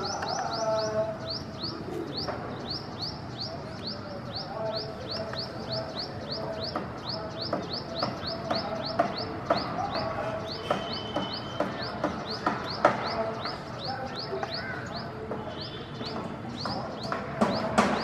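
A small bird calling a long, regular run of short, high, down-slurred chirps, about three or four a second, breaking off briefly near the end. Steady background noise runs beneath, and a few sharp clicks fall in the second half.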